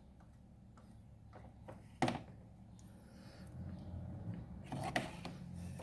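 Faint handling of small tools on a workbench: one sharp click about two seconds in and a few small clicks near the end, over a low steady hum.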